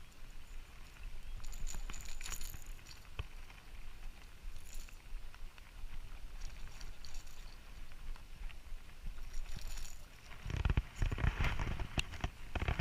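Rain falling steadily outdoors, with scattered light crackles. In the last two seconds a louder stretch of rumbling and sharp knocks comes in.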